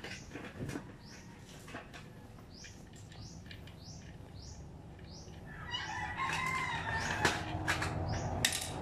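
Birds calling: a short high chirp repeated about twice a second, then from about six seconds in a louder, longer wavering call over it. A few sharp clicks come near the end.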